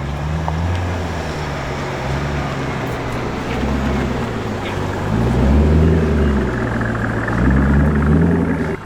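Car engine idling, then revved twice in the second half, the pitch climbing and falling back each time. It cuts off suddenly near the end.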